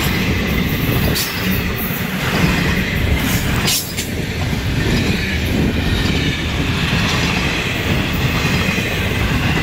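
Florida East Coast Railway intermodal freight cars (double-stack container well cars and trailer flatcars) rolling past close by: a steady loud rumble and clatter of steel wheels over the rail joints. There are two sharp clanks, about a second in and about four seconds in, and a faint squeal of wheels against the rail.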